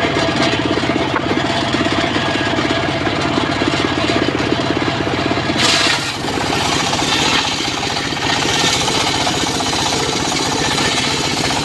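Engine-driven mobile circular sawmill running with a steady, rapid chugging, then a sharper hissing cut starting about six seconds in as the blade rips through a teak log.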